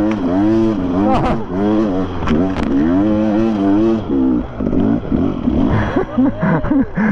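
Enduro motorcycle engine revving up and down as the bike is ridden, its pitch rising and falling about every half second for the first four seconds, then giving lower, uneven blips near the end.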